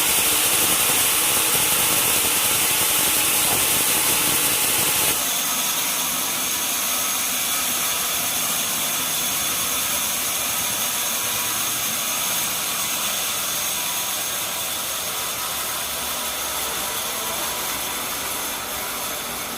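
Sawmill machinery running steadily, with a loud hiss that drops off abruptly about five seconds in, leaving a steadier machine hum with a faint whine that slowly fades.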